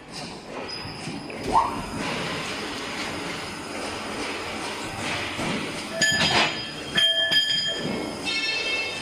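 Heavy machinery running steadily, with high metallic squeals about six and seven seconds in and a shrill whine near the end.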